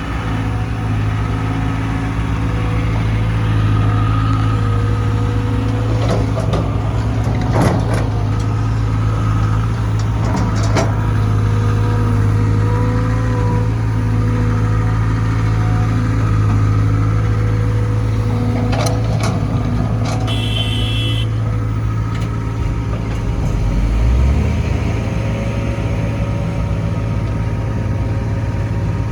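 Hydraulic excavator's diesel engine running steadily with a low hum, with a few metallic clanks from the machine working and a brief high squeal about two-thirds of the way in.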